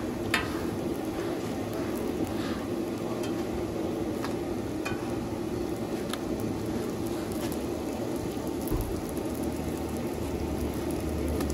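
Parathas frying in oil on a large flat tawa griddle: a steady sizzle, with a few sharp clicks of a metal spatula against the griddle as they are turned.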